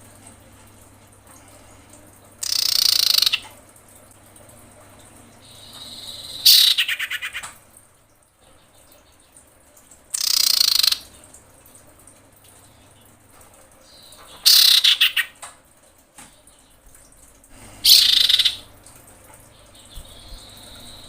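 Female common iora calling: five loud calls of about a second each, coming roughly every four seconds, several of them fast rattling trills, with softer calls in between. These are the calls of a female in breeding condition calling for a male.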